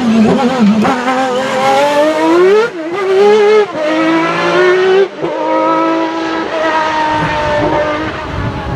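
Ferrari 333SP's V12 engine accelerating hard under load. The revs climb and drop back with quick upshifts at about three, four and five seconds in, then run at fairly steady high revs.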